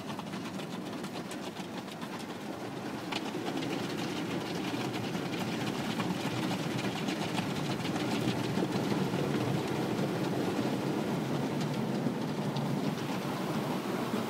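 Automatic car wash working over the car, heard from inside the cabin: a steady rushing, drumming clatter of spray and brushes on the body. It grows louder over the first eight seconds or so, then holds.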